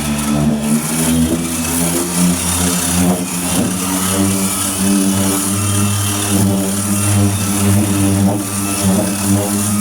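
A motor running steadily with a pitched hum, winding down right at the end.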